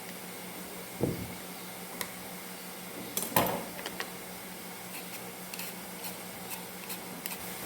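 Kitchenware being handled: two dull knocks, about one and three and a half seconds in, with scattered light clicks, over a steady low hum.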